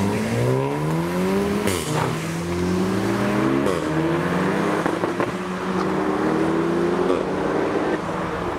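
Renault Mégane RS's turbocharged four-cylinder accelerating hard away. The engine note climbs steadily and drops back at each of several upshifts.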